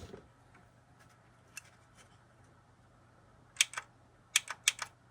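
Sharp small clicks of a power switch and buttons being pressed on a DVD player that stays dead: a single click, then two about three and a half seconds in and a quick run of four near the end, over a faint steady hum.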